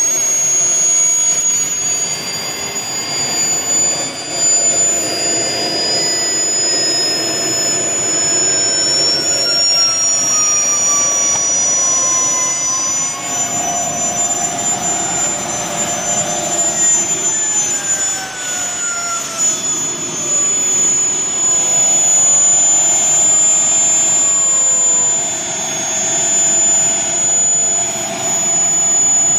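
Twin Cheetah model jet turbines running together with a loud, steady turbine whine. The high whistle climbs slowly over the first half and then holds, while fainter tones glide up and down as the two engines shift speed against each other.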